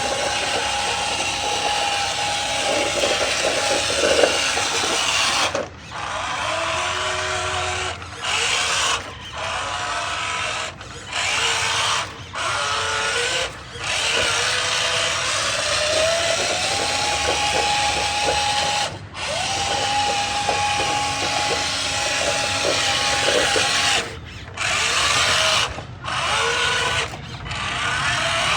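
Small electric motor and gearbox of a Huina 1501 RC Scania 770 truck whining as it is driven, the pitch rising, holding and falling with the throttle. It cuts out briefly about ten times as the truck stops and starts.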